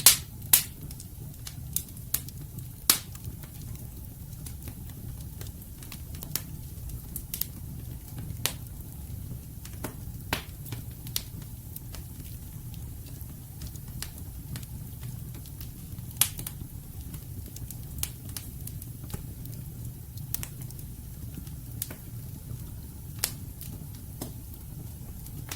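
Wood fire in a fireplace burning, with a low steady rumble of flame and sharp, irregular crackles and pops from the logs.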